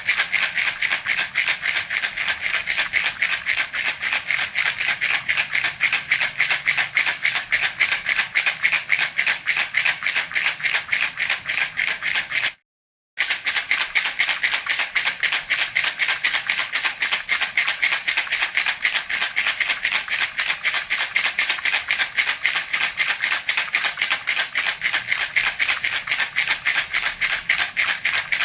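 Baby rattle (jhunjhuna) shaken steadily in a fast, even rhythm: a bright, crisp shaking. It cuts out completely for about half a second near the middle, then carries on the same.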